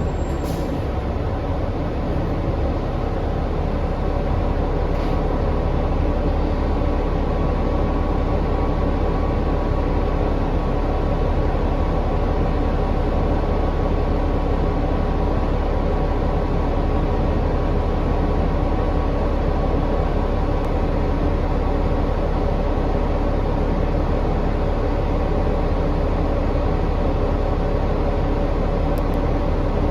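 Inside a 2019 New Flyer XD40 diesel transit bus under way: engine and drivetrain running steadily, a low rumble with several steady humming tones over it, growing slightly louder over the first few seconds. The bus's sound is unusual, with a cause its rider cannot explain ('sounds INSANE').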